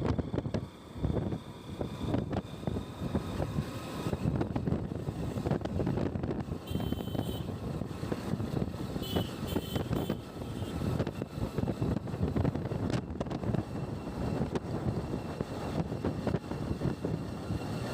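Wind buffeting the microphone over the steady rumble of a vehicle on the move, with gusty, uneven loudness.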